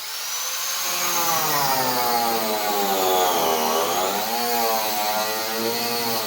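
Handheld electric power tool cutting wood, its motor running continuously. The pitch sags and recovers as the tool bites into the cut, dipping lowest a little past the middle.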